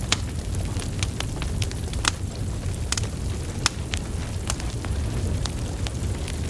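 Burning wood logs crackling, with sharp irregular pops and snaps over a steady low rumble of the flames.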